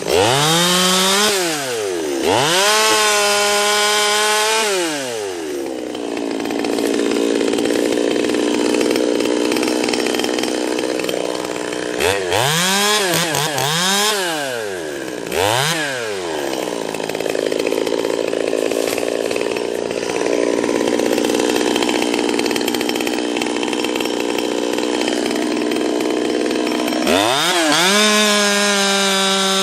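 Stihl two-stroke chainsaw with a 16-inch bar, blipped up and down in quick revs, then settling into a steady, lower-pitched run as it bites into the trunk under load. The rev-and-cut pattern repeats: a few quick revs, another long cut, then it revs up again near the end.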